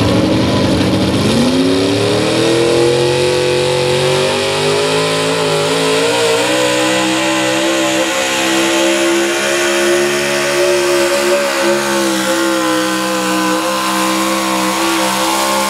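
Competition pulling truck's engine at full throttle during a pull: the revs climb over the first couple of seconds, then hold high and steady under load.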